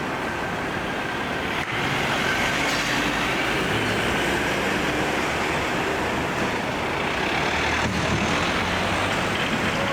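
Steady city street noise: the continuous rumble of road traffic and engines passing.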